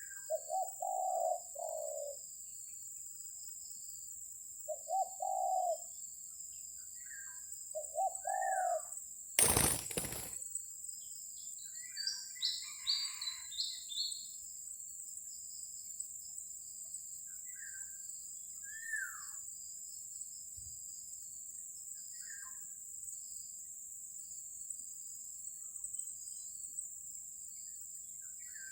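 Spotted doves cooing in short low phrases, three times. About nine and a half seconds in comes one loud, sudden noise lasting under a second, typical of the air-rifle shot that drops the wild dove, followed by scattered small-bird chirps over a steady high insect drone.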